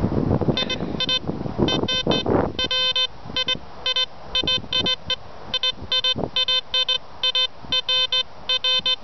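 Golden Mask 1 metal detector giving its target signal: short, clipped beeps at one steady pitch, repeating unevenly two or three times a second as the coil is swept over a buried target. Wind buffets the microphone during the first two seconds or so.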